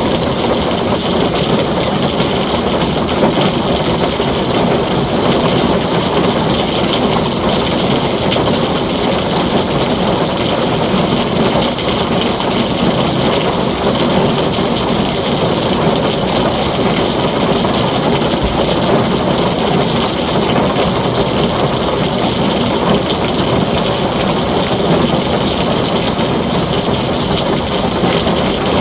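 Heavy rain falling steadily on a tin roof, a dense unbroken hiss and patter with no thunder.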